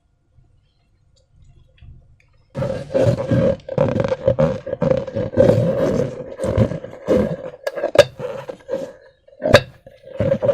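A rubber balloon's neck buzzing loudly as its contents are squeezed out through it, a rough, steady drone broken by short gaps and sharp clicks, starting about two and a half seconds in.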